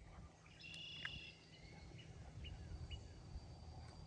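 Faint songbird calls: a short whistled note about a second in, then a few brief chirps, over a low steady rumble of wind or microphone handling.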